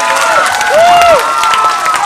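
A crowd cheering with many overlapping high-pitched shouts and screams, over a haze of applause.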